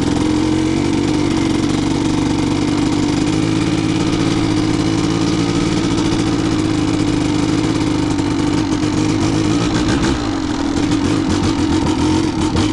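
Kawasaki KDX200 single-cylinder two-stroke dirt bike engine running under way at steady revs, its pitch starting to rise and fall with the throttle in the last few seconds.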